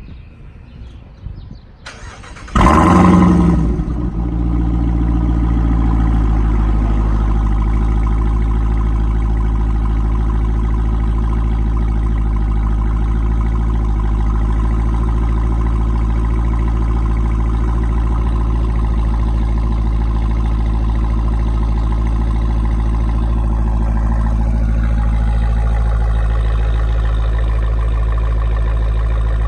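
Cold start of a 2018 Jeep Grand Cherokee Trackhawk's supercharged 6.2-litre V8 through a Borla ATAK cat-back exhaust. About two seconds in the starter cranks briefly, the engine catches with a loud flare of revs, then it settles into a steady idle.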